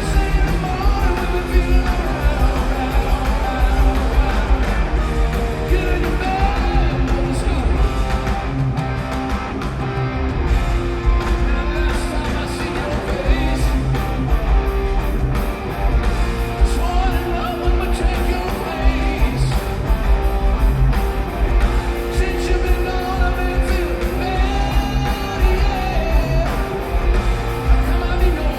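Live rock band playing loud electric guitar, with a male voice singing over it.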